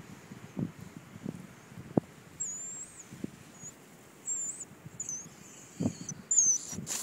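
High, thin, wavering squeaks of a bird, several short calls from about a third of the way in and again near the end, over a low hiss with occasional dull bumps on the microphone.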